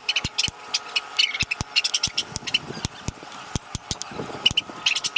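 A hammer tapping on a socket used as a drift, driving a new wheel bearing into an alloy mag wheel hub. The sharp metallic taps come quickly and unevenly, about four a second, seating the bearing gradually.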